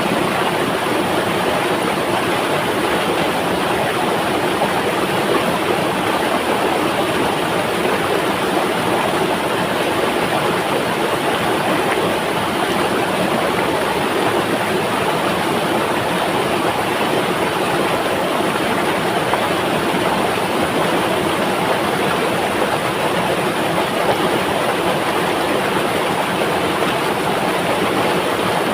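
Flowing river water, a steady even rushing with no pauses or changes.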